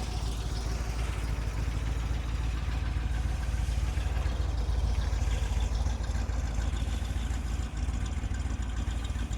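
1963 Corvette's 327 cubic inch, 340 hp solid-lifter V8 idling steadily through its exhaust, with a period-correct sound.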